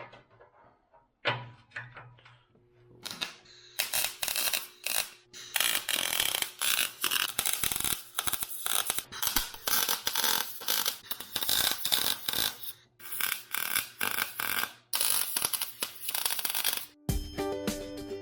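Welding arc crackling in irregular spells as a forged steel grab hook is welded onto a steel tractor bucket. Background music comes in near the end.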